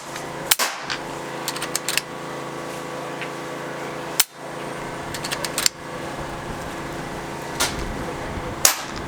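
PCP air rifles firing: about five sharp shot reports a second or more apart, with lighter clicks between them over a steady hum.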